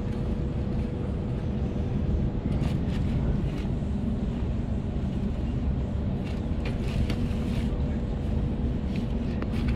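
Electric suburban train running, heard from inside the carriage: a steady low rumble with a faint steady hum, and scattered short clicks and rattles.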